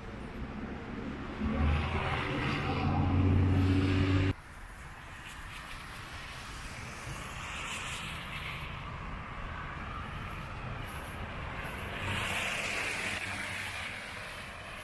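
A motor vehicle's engine running close by with a steady low hum, which cuts off suddenly about four seconds in. Steady hissing noise follows and swells twice.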